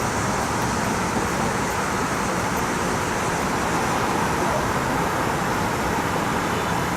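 Heavy rain pouring down steadily during a severe thunderstorm, an even downpour.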